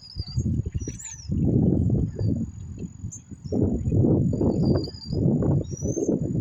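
Faint short chirps from small birds at a feeder, a few of them sliding quickly in pitch, over a steady high thin tone. A louder, irregular low rumbling noise surges under them and swells twice.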